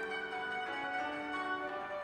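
Koto music: slow, ringing notes held and overlapping, changing pitch every half second or so.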